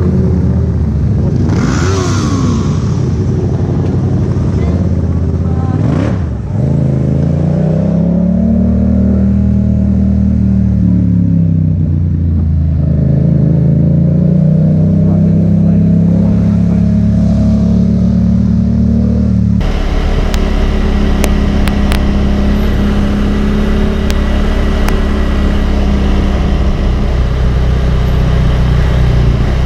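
Motorcycle engine running, its pitch rising and falling as the bike speeds up and slows. About twenty seconds in the sound cuts abruptly to another motorcycle engine running at a steadier pitch, with a few faint clicks.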